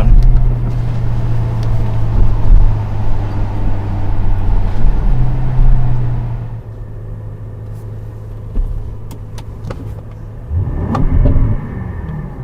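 Aston Martin DBX's AMG 4.0-litre twin-turbo V8 running under way, heard from the cabin with the windows open: a steady engine drone that fades off about six seconds in, then a short rise in engine note near the end.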